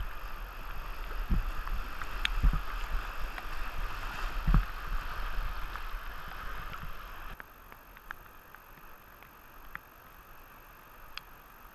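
Fast-flowing river water rushing past a kayak, with scattered splash clicks and a few low thumps, during a ferry glide across the current. The rushing noise drops off suddenly about seven seconds in.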